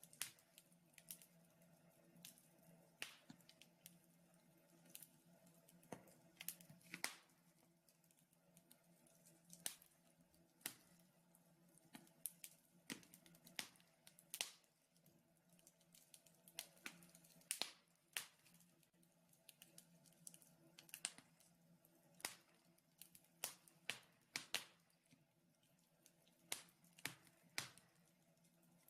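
Wood fire burning in a fireplace, crackling: irregular sharp pops and snaps, sometimes several close together, over a faint steady hum.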